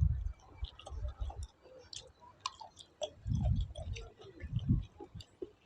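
Someone chewing food close to the microphone, with small wet mouth clicks and smacks scattered throughout.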